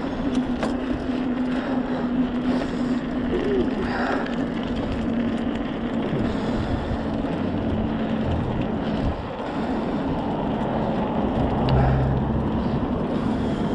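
Wind buffeting the microphone of a moving bicycle rider, over a steady hum of road traffic.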